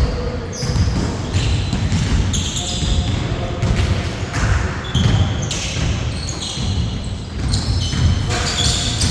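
Basketball game in play: the ball bouncing on the court with repeated thumps, mixed with many short high squeaks of players' shoes and scattered player voices.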